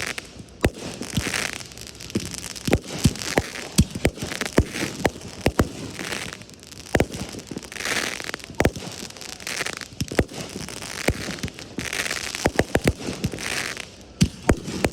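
Fireworks display: a string of sharp bangs from bursting shells at irregular intervals, with bursts of crackling every second or two between them.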